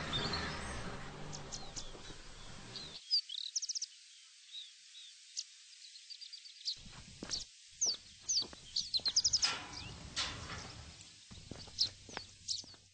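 Birds chirping, many short high calls and a few quick trills. For the first three seconds a low car engine rumble runs underneath, then cuts off suddenly.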